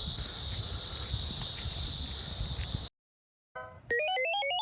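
Cicada chorus, a steady high-pitched buzz over a low rumble, cutting off abruptly about three seconds in. After a brief gap, a short electronic tune of stepping notes begins near the end.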